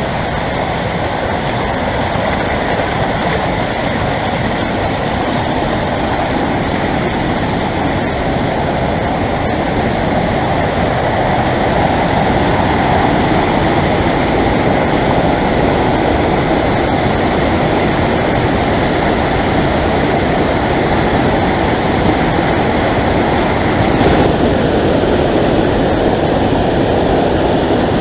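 Waterfall: water rushing over rocks in a steady, loud roar, growing a little louder about halfway through.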